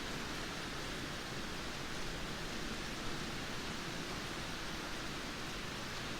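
Heavy downpour of rain, a steady even hiss with no let-up and no thunder.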